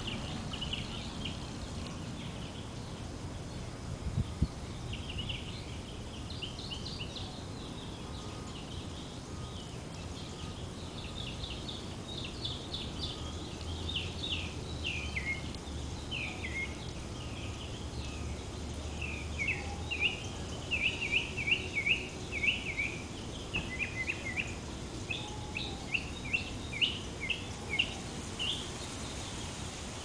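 Songbirds chirping in the trees: many short, high chirps and quick downward-sliding notes, sparse at first and coming in rapid clusters in the second half. A low steady hum sits underneath for a few seconds in the middle, and a single knock comes about four seconds in.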